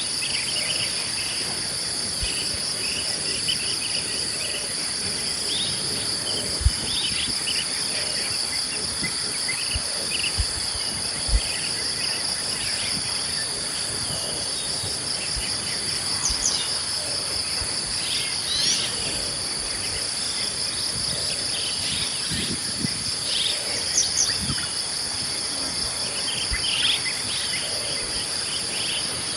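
Morning insect chorus: a steady, high-pitched, finely pulsing buzz, with scattered short bird calls and chirps over it. A couple of brief low thumps stand out about 7 and 11 seconds in.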